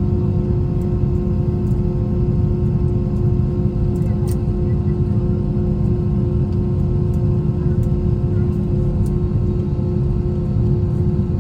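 Steady cabin drone of an Airbus A321's IAE V2500 turbofan engines and rushing air, heard from a window seat: a constant low rumble with a steady hum tone and a few faint clicks.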